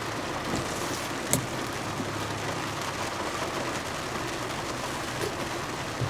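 Steady, even rushing noise inside a car, with a low hum under it and a single click a little over a second in.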